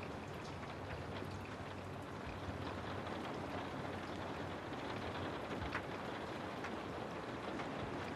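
Steady rain ambience: an even hiss with a few sharp drop ticks scattered through it.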